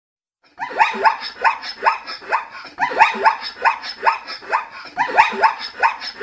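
An animal giving quick, repeated barking calls, each falling in pitch, about four a second in three runs with short breaks; it starts about half a second in.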